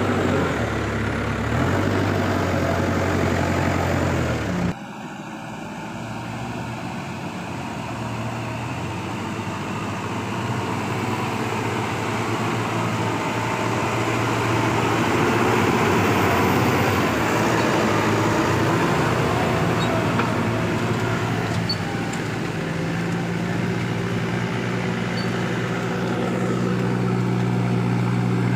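Diesel engine of a Case heavy-equipment machine running steadily under work. The sound drops off abruptly about five seconds in, then builds back up and holds steady.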